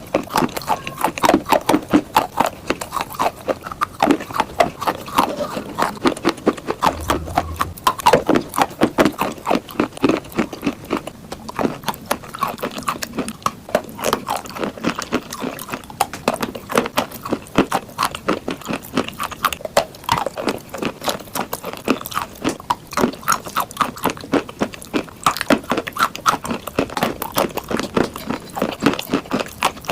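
A person chewing chalk: a steady run of crisp crunches, several a second.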